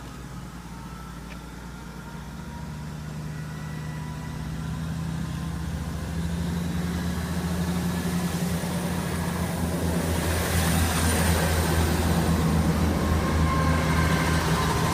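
Class 158 diesel multiple unit's underfloor diesel engines running with a steady low drone that grows steadily louder, with a faint high whine near the end.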